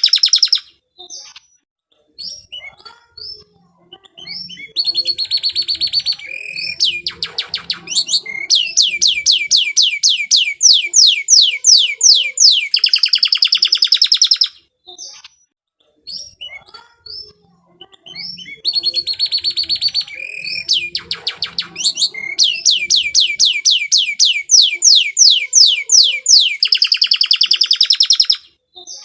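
Domestic canary singing a long, varied song: rapid trills and rolls, and long runs of fast, evenly repeated notes. Short pauses come about a second in and again near the middle.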